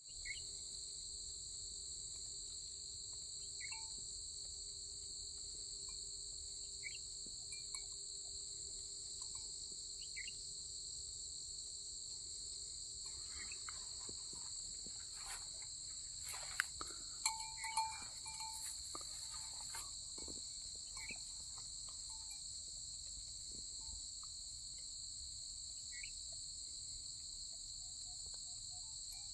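A continuous, steady, high-pitched insect chorus drones without pause, with a few faint short calls scattered through it and a brief cluster of knocks and rustles a little past halfway.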